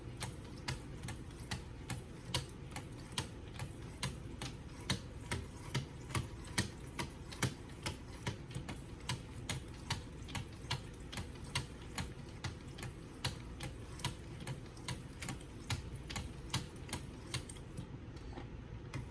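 Sharpening stones on a Wicked Edge guided sharpener stroked along a kitchen knife's edge at the 3,000 grit stage. Each pass gives a short click, about three a second in an even rhythm.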